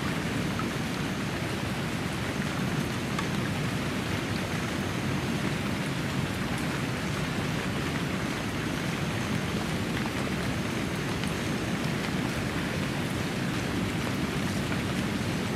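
Steady rain falling on a lake surface, an even hiss of drops on the water.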